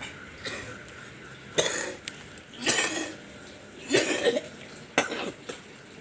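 A man coughing: four short, harsh coughs about a second apart.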